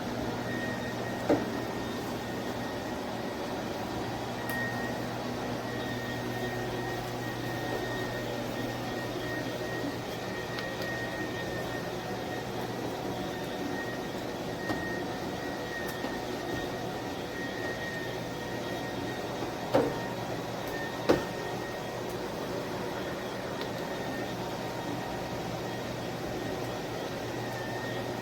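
Cordless dual-motor electric spin mop running steadily: a constant motor hum with a faint high whine that comes and goes. Three sharp knocks sound, one about a second in and two close together past the middle.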